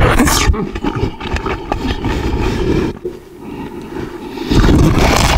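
A person biting and chewing raw napa cabbage up close: crisp crunching and crackling of the leaves. About four and a half seconds in, a louder, deeper rumbling noise takes over.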